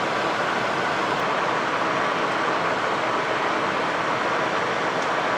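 Steady cockpit noise of a Cessna Citation XLS taxiing after landing: an even rush of air and turbofan engine noise with no distinct tones or changes.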